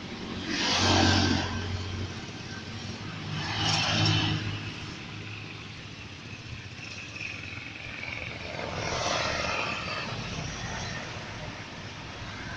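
Motor vehicles passing by: three swells of engine and road noise, about a second in, around four seconds in, and around nine seconds in.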